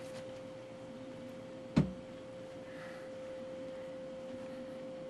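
A steady single-pitched hum with one short knock about two seconds in.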